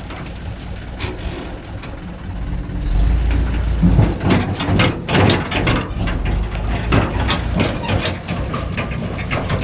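Heavy diesel engine running steadily at low revs, with a busy run of knocks and clatter from about three seconds in.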